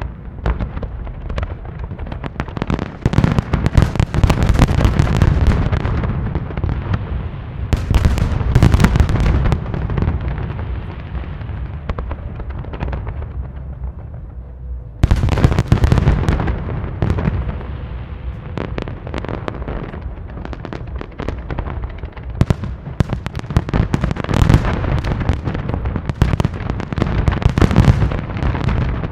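Large fireworks display: dense volleys of shell bursts booming and crackling almost continuously. The barrage thins out slightly toward the middle, then a fresh volley starts abruptly about halfway through.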